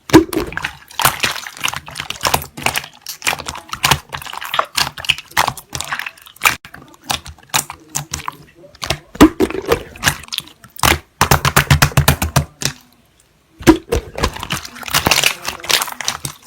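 Slime being squeezed and pressed by hand, giving quick runs of wet clicks and pops with a couple of short pauses.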